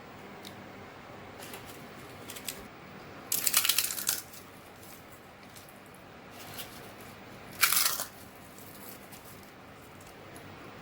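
Crisp fried puris being crushed, two short crunches about four seconds apart with a few light clicks between.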